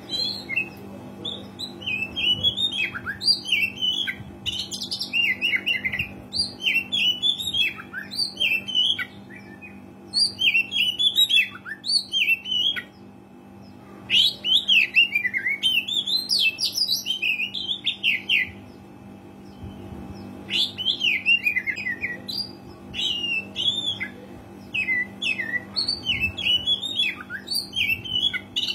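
Oriental magpie-robin (kacer) singing in long phrases of rapid, varied whistles and chirps, with pauses of a second or two between phrases, over a steady low hum.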